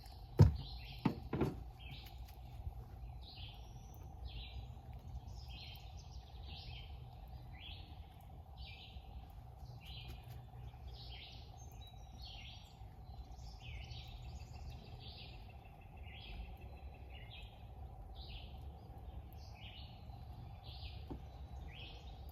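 A bird chirping over and over, short notes about two a second, steady throughout. A few sharp knocks sound in the first second or two, louder than the chirping.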